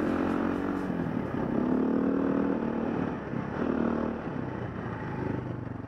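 KTM dual-sport motorcycle's single-cylinder engine running under way on a gravel trail, heard from the bike itself. The revs rise and ease off twice, about a second and a half in and again near four seconds.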